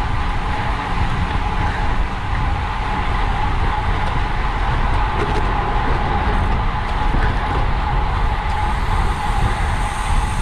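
Steady wind rush on the microphone of a road bike ridden at racing speed, with a low rumble and a steady hum underneath.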